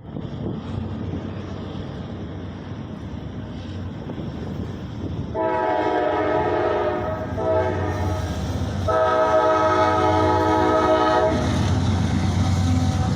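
Diesel freight locomotive horn sounding at a grade crossing in three blasts, long, short, long, over the steady rumble of the approaching train. The horn is a chord of several tones.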